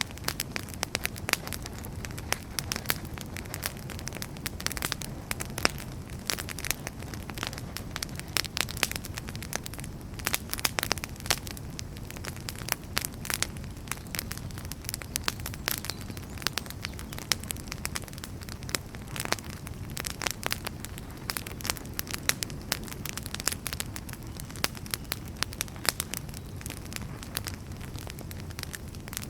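Firewood burning in a fireplace, crackling constantly with frequent sharp pops over a low, steady rumble of the flames.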